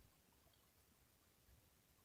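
Near silence: a pause between sentences.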